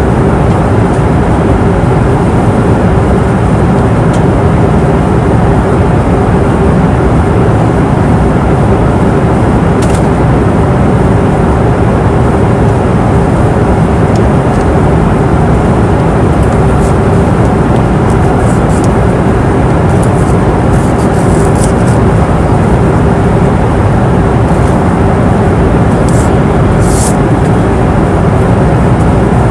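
Airplane cabin noise in flight: a loud, steady rush of engine and airflow noise with a steady hum running through it, and a few faint, brief ticks.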